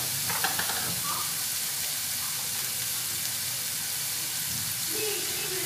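Chicken pieces frying in oil in a clay pot, a steady sizzle, with a few light clicks about half a second in.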